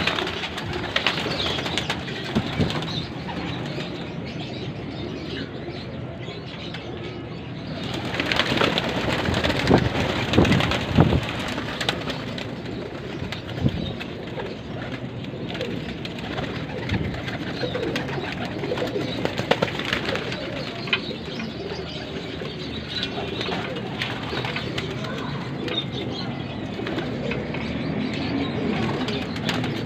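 Domestic pigeons cooing, with a louder stretch of wing flapping and scuffling about eight seconds in.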